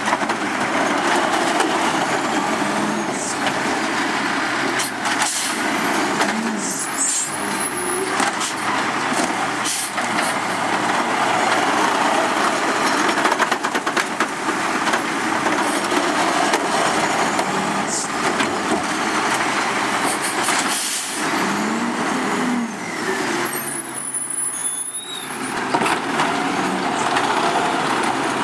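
Autocar garbage truck with a Pendpac body, its diesel engine running with a few brief changes in pitch, and sharp hisses of air brakes twice.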